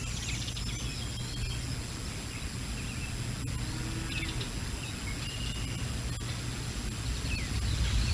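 Wind buffeting an outdoor microphone as a steady low rumble, with scattered short bird chirps; the wind grows stronger near the end.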